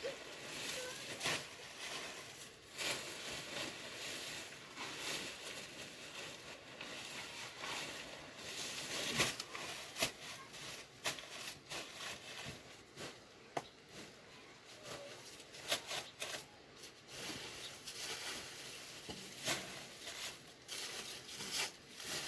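Irregular rustling and crinkling with scattered light clicks and taps.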